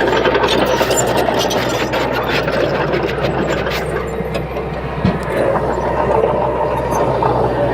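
Komatsu D21P small bulldozer working: the diesel engine runs steadily under the clatter and clanking of its steel tracks, with a single sharp knock about five seconds in.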